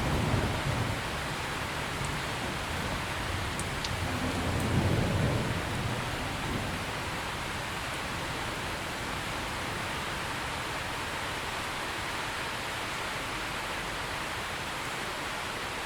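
Steady heavy rain hissing, with a low thunder rumble that swells about four seconds in and fades out by about six seconds, leaving the rain alone.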